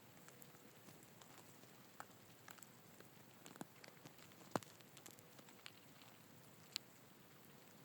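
Faint scattered crackling and ticking from a forest anthill, the sound of ants moving over the mound, with a sharper click about halfway through and another near the end.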